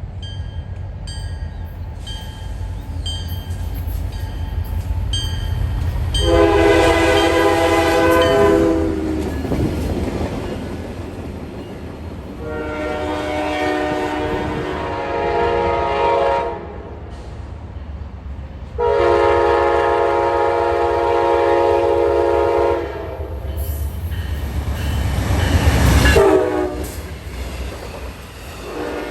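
Train horn sounding three long blasts, each a chord of several notes, over the low rumble of an approaching train that grows loud and passes close by near the end.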